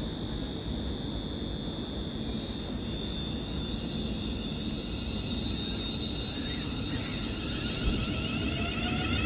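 Class 350 Desiro electric multiple unit pulling away, a steady high-pitched electric whine over a low rumble; near the end the motor tones start to rise in pitch as it picks up speed.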